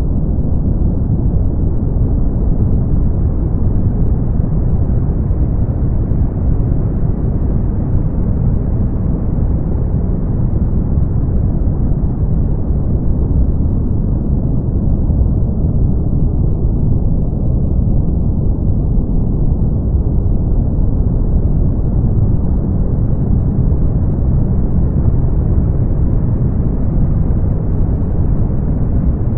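Steady brown noise: an even, deep rumbling hiss with most of its energy in the low end and nothing above the upper mids.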